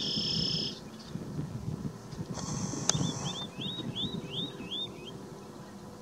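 Birds calling: a short buzzy note at the start, another buzz about two and a half seconds in, then a quick run of about seven slurred whistled notes.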